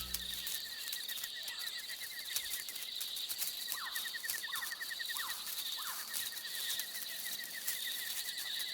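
Night forest ambience: insects trilling steadily at a high pitch, one with a rapid pulsing trill, and four short falling chirps from another animal a little past the middle.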